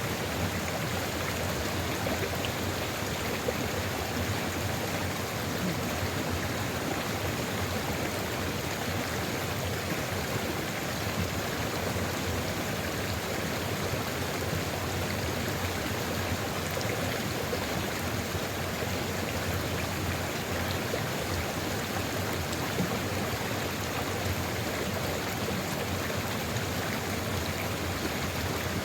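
Sulfur river flowing steadily over rocks: an even, unbroken rush of running water.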